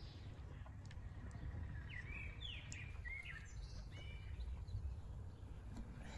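Wild songbirds giving a few short chirps that slide up and down in pitch, mostly between two and four seconds in, over a steady low outdoor rumble.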